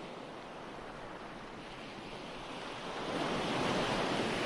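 Recorded ocean waves washing on a shore: a steady hiss of surf that swells as a wave breaks in the last second and a half, then begins to ebb.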